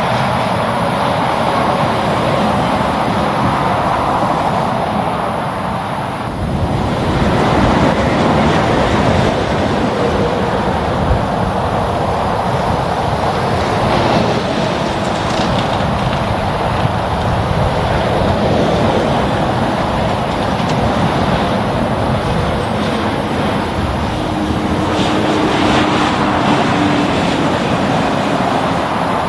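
Highway traffic: steady tyre and engine noise of heavy trucks and an intercity motorcoach passing, swelling about six seconds in as a vehicle goes by.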